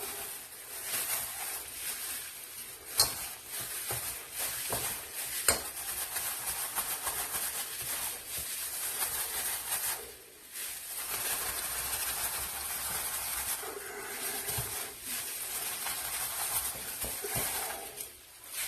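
Food being stirred in a hot frying pan with a continuous sizzling hiss, and a couple of sharp clicks of a utensil against the pan.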